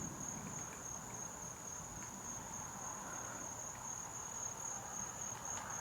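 Crickets trilling: one steady, high-pitched trill that runs on without a break.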